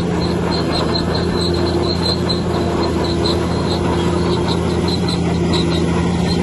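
Bulldozer's diesel engine running steadily, with a rapid series of short high squeaks over it, several a second.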